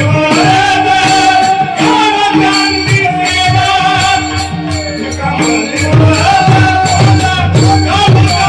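Marathi devotional bhajan music: a held, melismatic sung line over sustained instrumental tones, with tabla keeping a steady beat and metallic jingling percussion.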